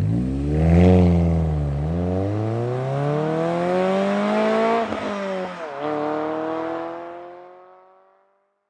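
Renault Twingo GT's small turbocharged three-cylinder engine accelerating hard, its pitch climbing, then dropping back at two gear changes, about two seconds in and about six seconds in. The sound fades out near the end.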